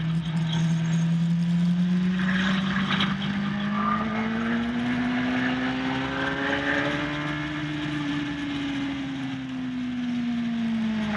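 Motorcycle engine running hard, its pitch climbing slowly for about seven seconds and then easing back down, over a steady rushing noise.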